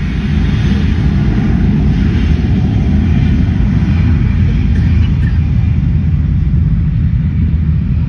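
Aircraft engine noise: a loud, steady low rumble that swells up at the start and then holds level.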